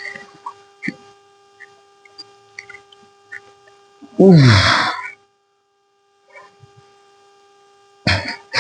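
A man's loud, falling groan of effort lasting about a second, about four seconds in, over a steady electrical hum and scattered small clicks and knocks; two short noisy bursts near the end.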